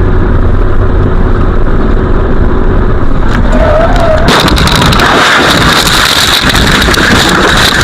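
Car interior road and engine rumble, then about four seconds in a sudden loud car crash: a dense burst of crunching, scraping and banging impacts that goes on to the end.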